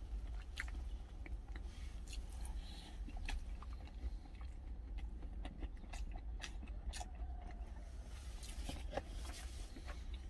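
A person chewing a mouthful of food close to the microphone, with scattered small mouth clicks and light taps and scrapes of a metal spoon in a stainless steel food container, over a steady low rumble.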